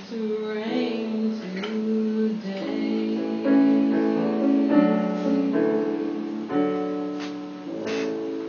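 Piano playing the slow closing chords of a ballad, a new chord about every second, with a final chord struck near the end and left to ring.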